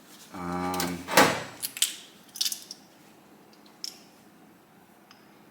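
A short low hum, then a run of sharp metallic clinks and clicks as engine parts are handled on a workbench, the loudest about a second in and smaller ones over the next few seconds.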